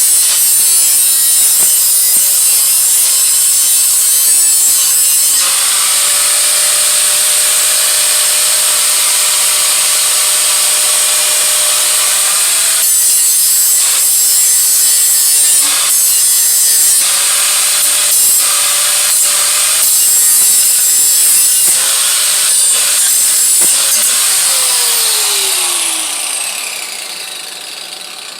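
Handheld electric grinder grinding the metal of an exhaust head pipe: a steady, loud abrasive hiss over a motor whine, with a few short breaks. Near the end the tool is switched off and spins down with a falling whine.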